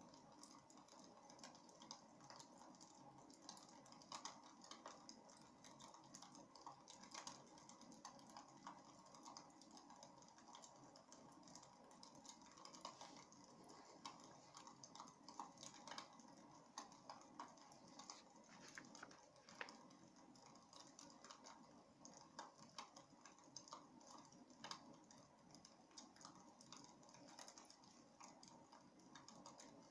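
Faint wood fire crackling in a fireplace: irregular small pops and snaps over a soft steady hiss.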